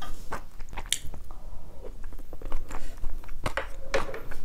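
A person chewing a mouthful of kimchi octopus porridge close to the microphone: irregular soft clicks and wet mouth sounds.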